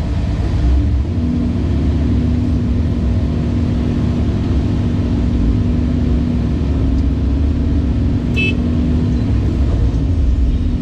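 Cat 349E excavator's C13 diesel engine running steadily under working load: a low rumble with a steady hum over it. A brief high squeak comes about eight seconds in.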